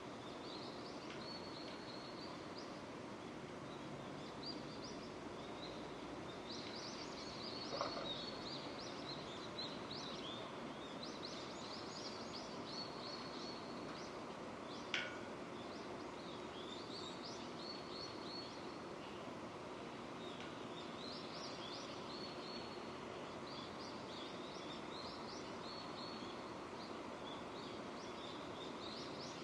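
Steady rain falling, with small birds chirping on and off over it. Two short sharp taps stand out, one about eight seconds in and one about fifteen seconds in.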